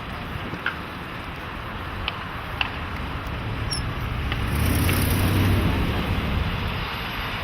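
Street traffic noise, with a vehicle passing about five seconds in, its low rumble swelling and then fading.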